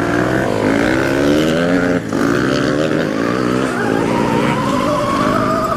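Rawrr Mantis X electric dirt bike's motor whining under throttle, its pitch rising and falling as the rider accelerates and lets off. There is a brief drop about two seconds in, then one long rising whine as it gathers speed.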